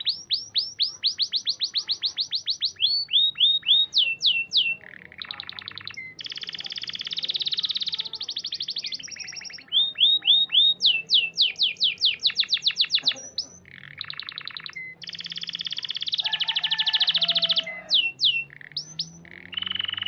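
Domestic canary singing: runs of rapidly repeated rising whistled notes, about eight a second, alternating with fast buzzing rolls and a few lower notes.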